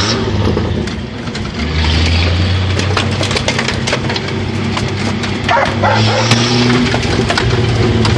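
1977 Jeep CJ5's engine pulling hard off-road, its note strengthening about a second and a half in, with scattered clicks and knocks of flung stones and mud. Dogs chasing the Jeep bark in a short burst a little past the middle.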